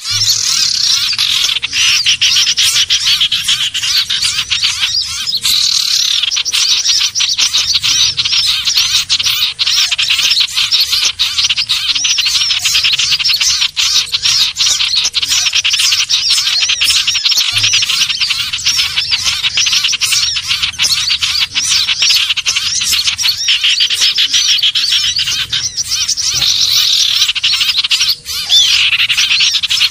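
Common ioras (cipoh/sirtu) calling in a bird-lure recording: a dense, unbroken stream of rapid, high chirps and trills, several birds overlapping.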